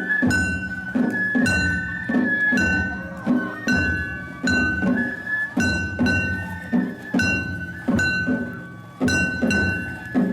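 Japanese festival float music (matsuri bayashi): a high bamboo flute holds long notes over steady taiko drum beats and bright metal percussion strikes, mostly in pairs about half a second apart.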